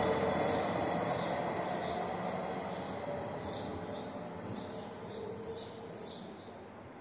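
Running noise of a Stadler FLIRT electric multiple unit fading steadily as the train moves away. Birds chirp over it in a series of quick, falling calls, about two a second in the second half.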